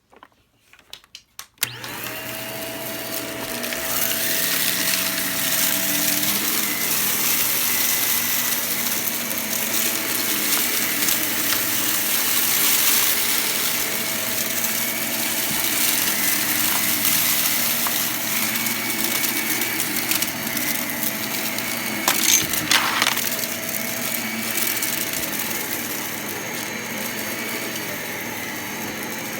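Vacuum cleaner switched on about two seconds in and running steadily while it sucks up crunchy debris, with scattered crackles and a short rattling clatter about three-quarters of the way through.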